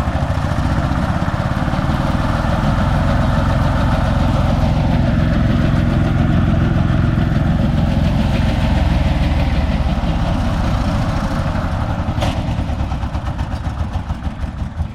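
Konma MT-S411D harvester (thresher) running steadily, its engine and threshing mechanism turning over while it is checked for an abnormal noise reported during threshing. A single sharp click about twelve seconds in, and the running turns uneven near the end.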